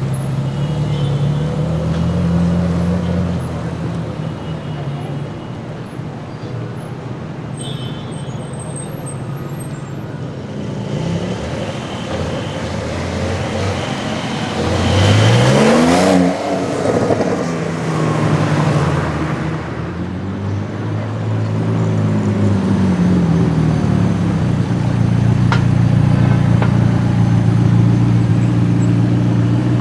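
Car engines in street traffic. About halfway through, one car accelerates past with its engine pitch climbing steeply. Shorter revs rise and fall a few seconds later, and a louder steady engine note holds near the end.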